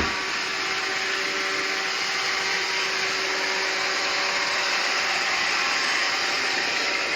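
Roomba robot vacuum running steadily, the even whirr of its suction fan and brushes with a faint steady whine under it, working properly on freshly fitted wheels, brushes and filter. A brief click right at the start.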